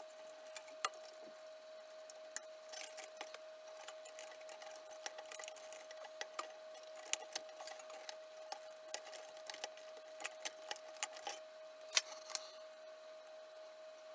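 Scattered small metallic clicks and taps of tools and parts being handled, thickest from about two and a half seconds in until about twelve seconds, over a faint steady whine.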